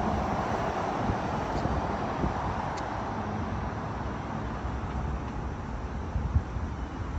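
Road traffic running past with wind buffeting the microphone. The traffic noise is loudest at the start and eases off gradually, over an uneven low rumble from the wind.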